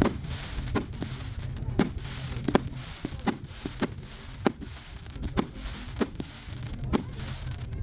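Fireworks display going off: a run of sharp bangs and pops at irregular intervals, often one or two a second, over a steady crackling hiss.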